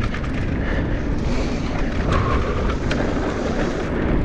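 Mountain bike riding down a dirt trail: tyres rolling over hard-packed dirt and wind rushing over the microphone, with small rattles and knocks from the bike over bumps and a short high squeal about two seconds in.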